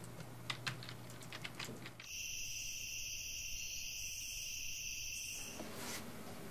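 A few faint clicks, then from about two seconds in a steady high-pitched trill of crickets that stops about three and a half seconds later.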